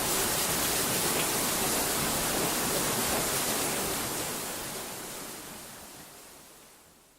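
A steady rushing noise, even across low and high pitches, that fades out smoothly over the last three seconds.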